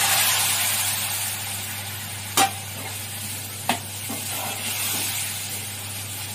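Boiled jackfruit seeds sizzling as they drop into hot oil and fried spices in a metal pan, the sizzle strongest at first and slowly easing. A steel spoon stirring them knocks sharply against the pan twice, about two and a half and three and a half seconds in.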